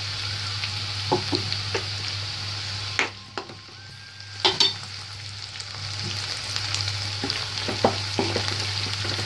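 Chopped garlic and green chillies sizzling in hot oil in a kadhai, with a spatula clicking against the pan now and then. The sizzle dips for about a second and a half around three seconds in.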